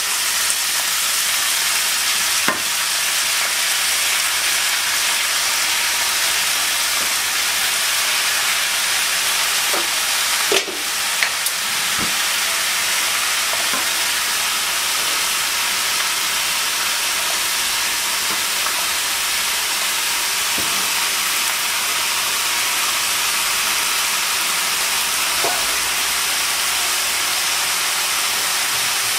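Food sizzling steadily in hot oil in a pan, with a couple of light knocks of a utensil against the pan.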